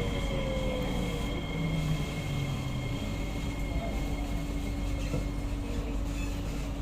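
Interior running noise of a Kawasaki–CRRC Sifang C151A metro car over its bogie: a steady low rumble with a motor whine falling in pitch during the first second as the train slows. Thin steady high tones fade out about five seconds in.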